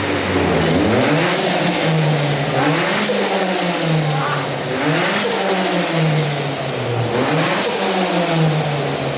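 Turbocharged Ford Focus engine free-revved four times, about two seconds apart. Each rev is followed by a high turbo whistle that climbs and then slides down as the throttle closes, with turbo flutter.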